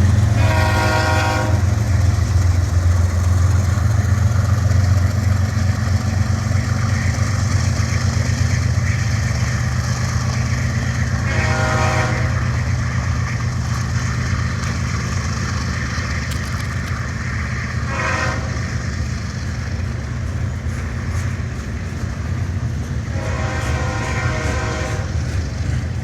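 Diesel locomotive running steadily under a train, its horn sounding two long blasts, one short and one final longer blast: the grade-crossing signal.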